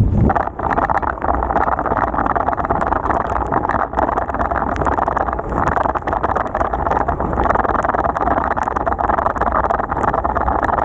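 Steady hiss of water while cycling through heavy rain on wet roads, with many small crackling ticks through it.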